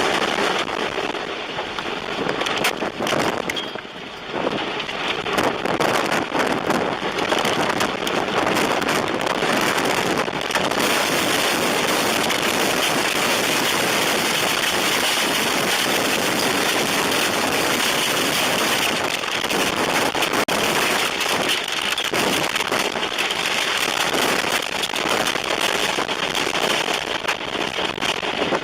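Tornado-force wind roaring around a car, with rain and debris pelting the body and windows in a dense crackle of sharp hits.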